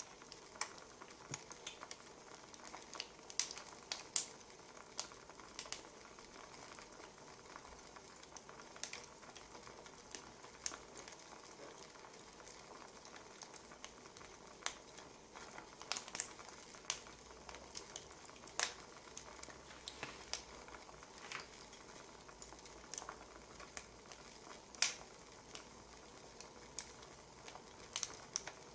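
Wood fire crackling: irregular sharp pops and snaps, a few louder than the rest, over a steady soft hiss.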